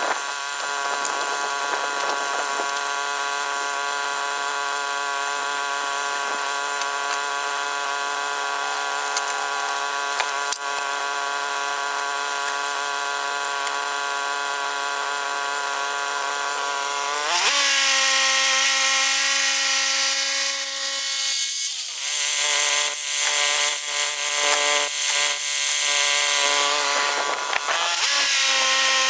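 Woodland Mills HM122 portable bandsaw sawmill running, its engine-driven blade sawing a large pine log with a steady whine. About two-thirds of the way through the sound gets louder and hissier and the engine pitch steps up. Near the end the pitch dips and recovers twice as the engine labours under load.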